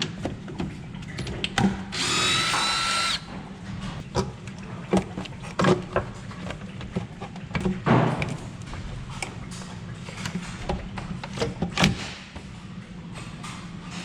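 A handheld power drill/driver runs once, for just over a second about two seconds in, with a whine, while loosening fasteners on an engine. Metal tools and parts click and knock many times around it.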